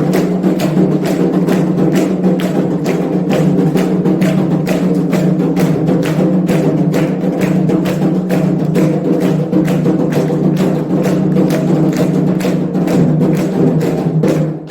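Candomblé ritual percussion: hand drums and a struck bell or wood-block-like instrument playing a fast, steady rhythm of about four to five strokes a second over a continuous low tone, breaking off right at the end.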